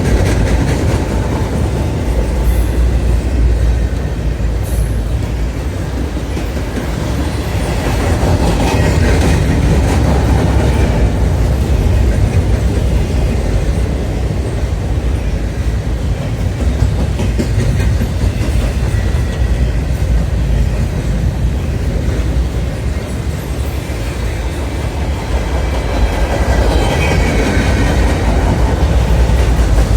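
Freight train cars rolling past on a mainline, a steady heavy rumble with the clickety-clack of the wheels over the rail, swelling and easing as the cars go by.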